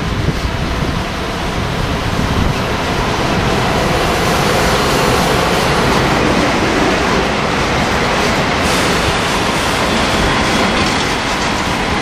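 Container freight train headed by two SBB electric locomotives rolling through close by. The sound builds over the first few seconds as the locomotives pass, then holds steady as the container wagons follow with wheel-on-rail noise.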